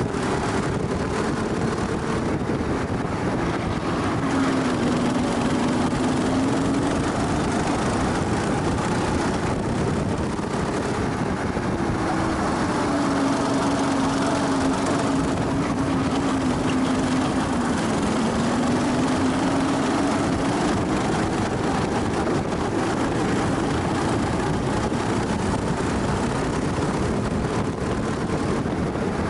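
Go-kart engine running hard, heard from on board, its pitch sinking and climbing again every few seconds as the revs fall and rise around the lap.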